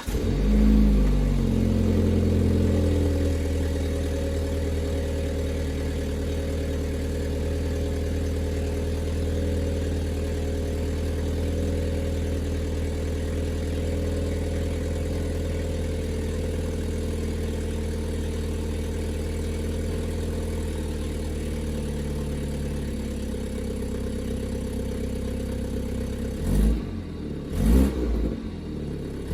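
A 2018 BMW 530i's 2.0-litre turbocharged four-cylinder on its stock exhaust catches on start-up, its flare of revs settling over the first couple of seconds into a steady idle. The idle drops a little lower a few seconds before the end, and then the throttle is blipped a few times in quick succession.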